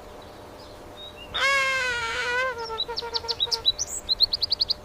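Bird calls: a wavering, several-toned call about a second and a half in, followed by a run of short high chirps that come faster near the end.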